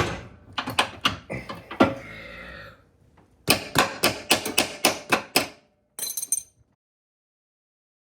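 Sharp metallic knocks and clacks of hand tools and loose suspension parts, with a quick run of about ten knocks, roughly five a second, midway through; the sound then cuts off suddenly.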